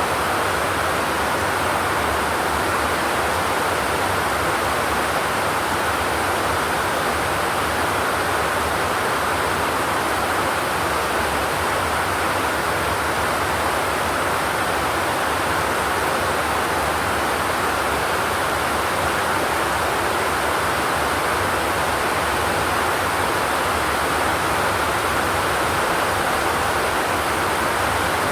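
Steady rain falling on a zinc roof, an even, unbroken hiss with no thunder.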